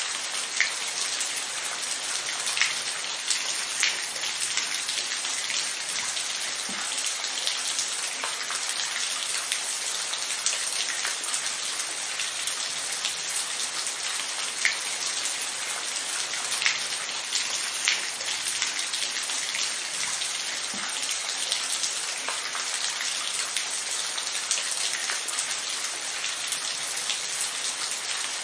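Steady rain falling, an even hiss with scattered louder single drops ticking on a surface.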